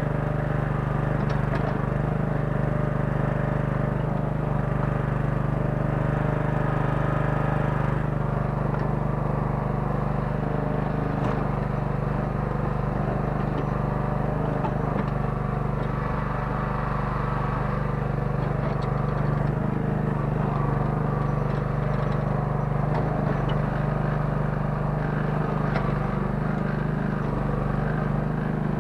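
Small 9 hp engine of a Kellfri towable mini excavator running steadily at a constant speed, with a few faint clicks on top.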